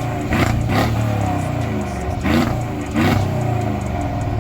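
Mercedes GLS550's twin-turbo V8 (M278), with Stage 2 tune, downpipes and exhaust cutouts, revved in four quick blips over a low idle rumble.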